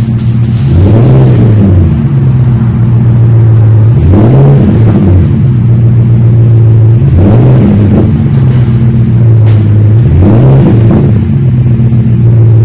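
2022 Ford F250's 6.2-litre gas V8 running through a new Magnaflow single-in/dual-out muffler and a custom cat-back dual exhaust with the mid muffler deleted. It idles with a mild rumbling purr, and the throttle is blipped about four times, the note rising and falling back each time.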